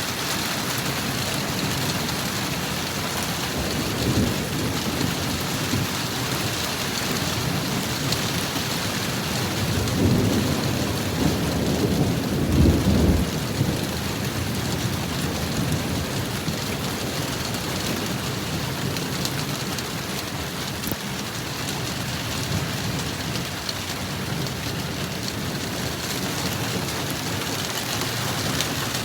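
Heavy rain falling steadily, with a short low rumble of thunder and then a longer, louder roll of thunder near the middle.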